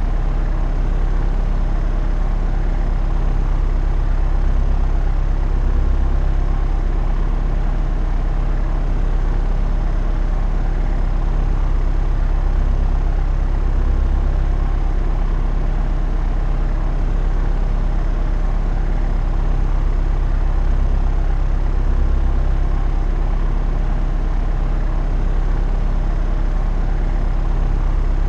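Propeller aircraft in cruise flight: a steady, even drone of engine and propeller with a low hum and rushing air noise, unchanging in level.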